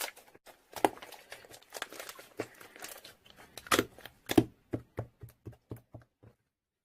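Crinkling and crackling of something being handled up close: a run of sharp irregular crackles that thin out and stop about six seconds in.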